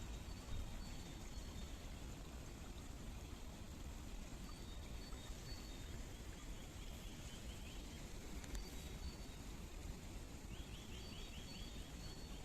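Steady rushing noise of flowing water, with a small bird giving a short high rapid trill twice, about five seconds in and again near the end, and faint high chirps between.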